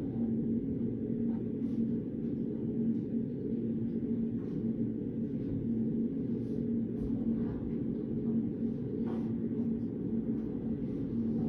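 Steady low hum of a study room's background noise, with faint, scattered ticks and rustles of pen and paper.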